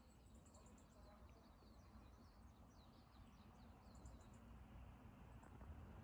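Near silence: faint high chirps of small birds, many short notes in quick runs, over a steady low rumble of wind.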